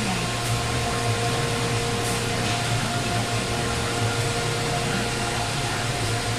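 Steady drone of a running Biesse Rover CNC router set-up: a low hum with several held tones over an even hiss, unchanging throughout.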